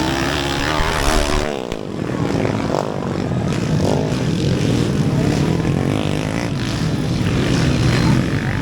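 Several underbone motorcycles racing on a motocross track, their small engines revving up and down as they shift and accelerate, with a brief drop in level about two seconds in.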